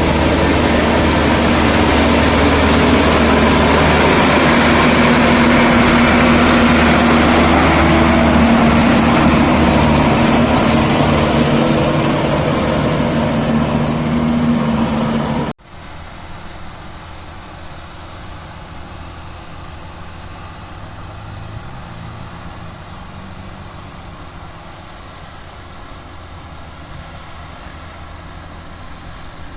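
Bimo Evo 102 combine harvester's engine running loud and steady. About halfway through the sound cuts off abruptly and a much quieter engine hum carries on.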